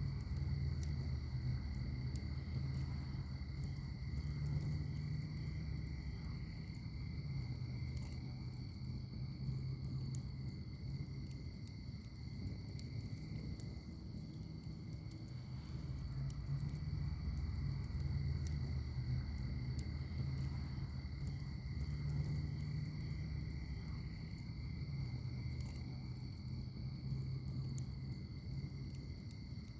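Wood fire in a fire pit crackling with scattered small pops over a low, steady rumble. A steady high trill of crickets runs underneath.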